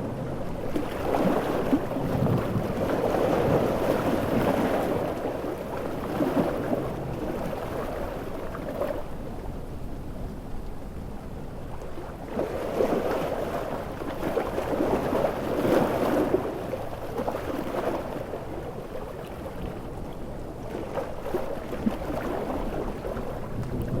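Big ocean waves surging and breaking in two long swells, one starting about a second in and another near the middle, mixed with a steady hiss of heavy rain.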